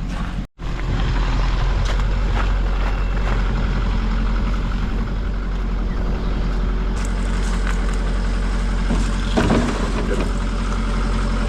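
Vehicle engine idling steadily, with a few short knocks and rattles over it.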